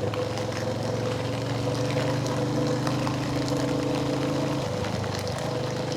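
Royal Enfield Hunter 350's single-cylinder engine running at a steady speed, a steady hum with one of its tones dropping out about four and a half seconds in.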